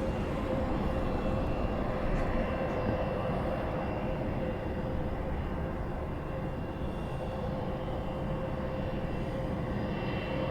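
Jet airliner engines running with a steady whine over a wash of engine noise.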